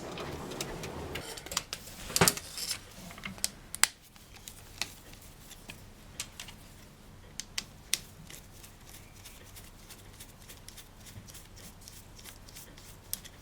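Scattered sharp clicks and taps of small parts being handled by hand, with a louder knock about two seconds in.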